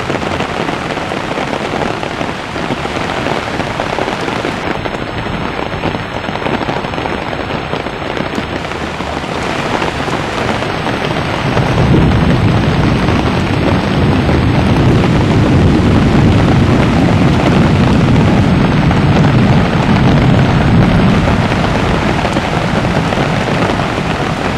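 Heavy downpour and rushing floodwater, a steady loud noise that grows louder and lower about twelve seconds in.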